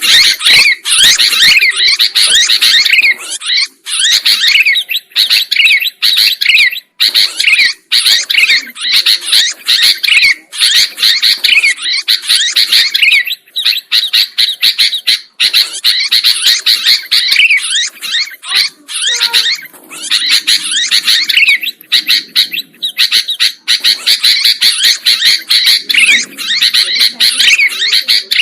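Sooty-headed bulbul (kutilang) singing busily: a rapid, nearly unbroken stream of high chirps and whistled notes.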